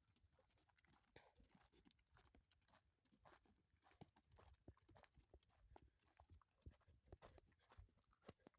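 Faint, irregular clopping of a donkey's hooves as it walks.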